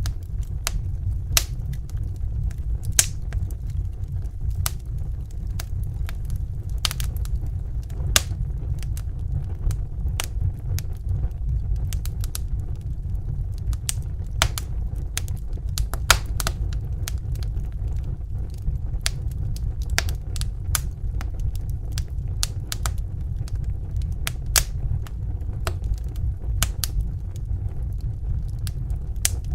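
Wood fire crackling: irregular sharp snaps and pops, a few louder ones among them, over a steady low rumble of burning.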